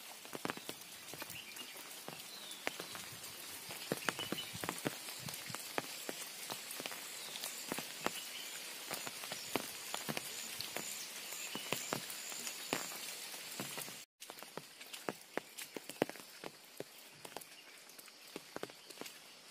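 Rain pattering steadily on leaves and wet ground, full of separate sharp drop ticks. The sound cuts out for an instant about 14 seconds in, then goes on a little quieter.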